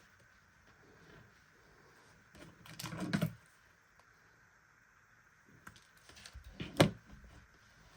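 Two bursts of quick, small clicks and taps, like small hard parts being handled: one about three seconds in, the other near the end, finishing with one sharper click.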